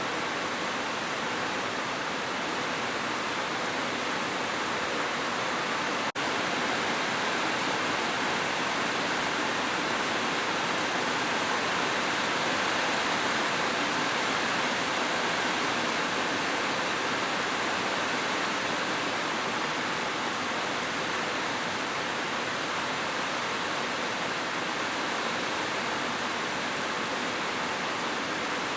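Heavy rain falling as a steady, even hiss, with a momentary gap about six seconds in.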